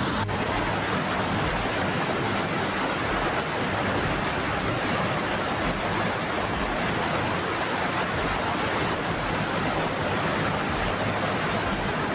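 Floodwater rushing down a street in a steady torrent.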